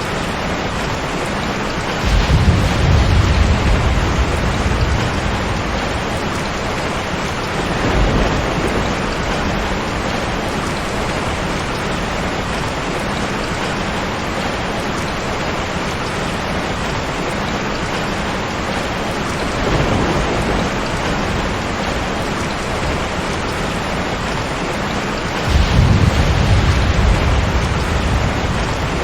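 Steady heavy rain with thunder rumbling four times. The loudest rolls come about two seconds in and near the end, with weaker ones in between.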